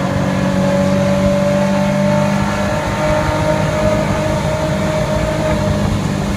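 Turbocharged car engine running steadily, a constant higher tone sitting over the low engine note; the engine note shifts slightly about three seconds in.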